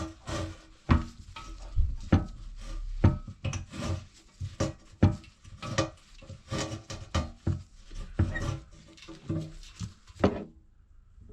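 Irregular clatter and knocks of metal and plastic parts and tools being handled, several a second at times, stopping about ten seconds in.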